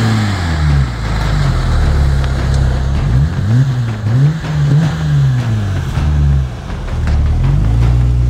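Jeep Gladiator's V6 running through a Magnaflow Rock Crawler cat-back exhaust. It holds steady, then is revved in several quick blips a few seconds in and settles back, with the revs climbing again near the end.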